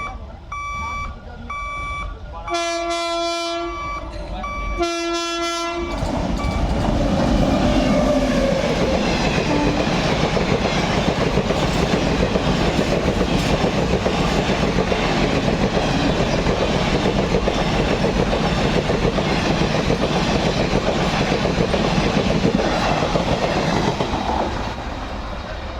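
Indian Railways train horn sounding three blasts, the last two longer, then the train passing at speed with a steady rush and the clatter of coach wheels over the rails.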